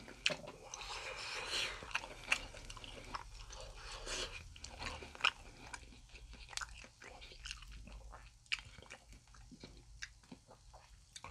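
Close-miked chewing of grilled yakitori chicken skewers, with many short wet mouth clicks and smacks.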